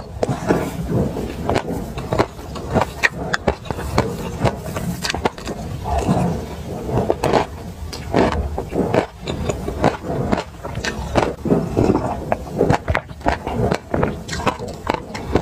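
Close-miked chewing and crunching of a mouthful of dry sesame seeds: a dense, irregular run of small crackling crunches.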